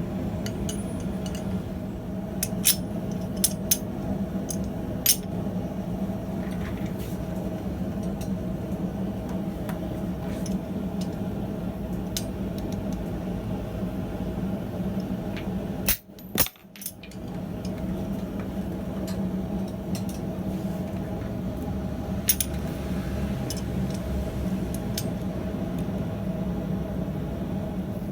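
Propane forge running with a steady drone, with scattered light metallic clinks of tongs and steel being handled. The sound briefly cuts out just past halfway.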